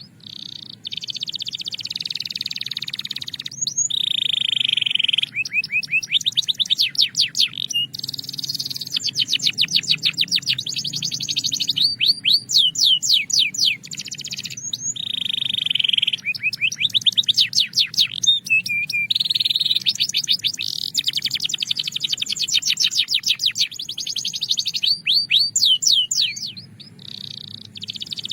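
Belgian canary singing a long song of rolls and trills: rapid series of repeated notes alternate with sustained buzzing rolls and a few gliding notes, broken by brief pauses between phrases.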